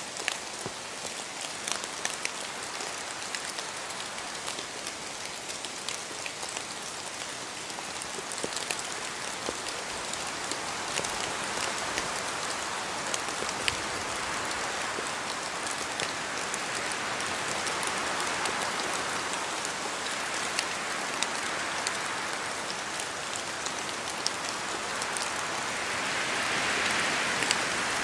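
Steady rain in a forest, a continuous hiss with many separate drops ticking through it. The hiss swells at times and is loudest near the end.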